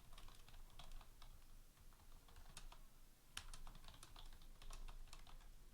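Faint typing on a computer keyboard: irregular key clicks, several a second, with a few sharper taps around the middle.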